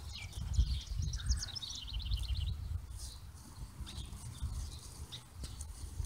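A songbird sings a quick run of repeated high notes over the first two and a half seconds, with a few fainter chirps afterwards, over a steady low rumble.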